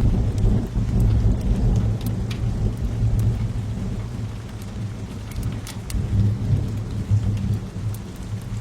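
Steady rain with a deep rolling rumble of thunder that swells in the first few seconds and again later, then eases near the end. Sharp crackles and pops of a burning wood fire come through now and then.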